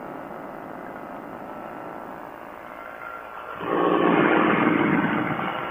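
Quicksilver ultralight's engine running steadily in flight, then swelling much louder with a steady buzz about three and a half seconds in for roughly two seconds before easing off near the end.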